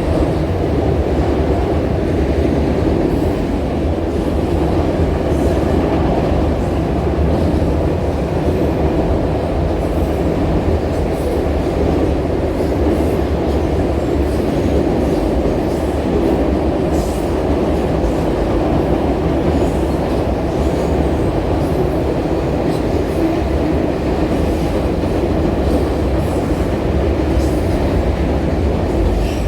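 A train rolling past, with a steady, loud rumble of railcar wheels on the rails and faint scattered clicks.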